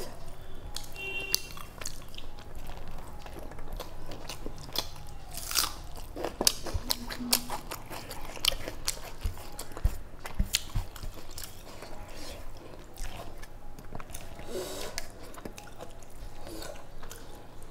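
Close-up chewing and biting, with many short crunchy clicks, of rice and chicken curry eaten by hand, along with fingers mixing rice on a steel plate.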